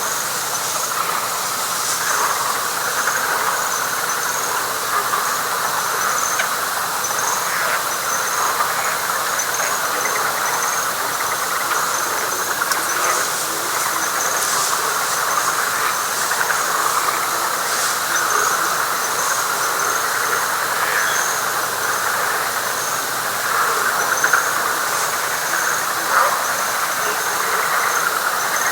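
Night chorus in a wet pine flatwoods: a dense, steady frog chorus, with a high thin call pulsing about twice a second above it.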